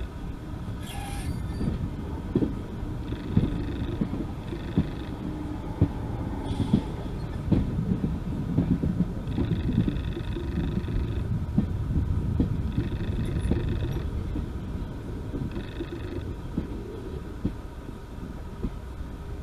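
Heritage railway train running: a steady low rumble with frequent short knocks, and a group of higher tones that comes and goes every few seconds.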